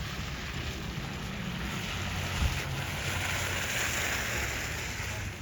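Wind buffeting the microphone, a low rumble under a rushing hiss that swells in the middle and falls away near the end. A single brief thump comes about halfway through.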